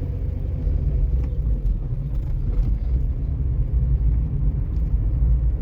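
Steady low rumble of a moving motor vehicle.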